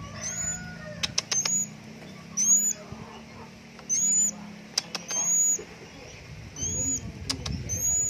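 A young songbird in a cage giving a short, high, sharp call with an upturned end, repeated about once a second. A few sharp clicks come in between, about a second in, near the middle and near the end.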